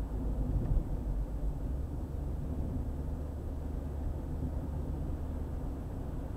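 Car driving at speed on a highway: a steady low rumble of tyres and engine.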